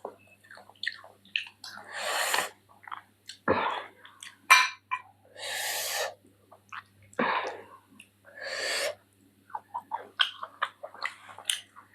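Close-miked eating sounds: wet chewing and smacking clicks, broken by about six loud breathy mouth sounds, each under a second long.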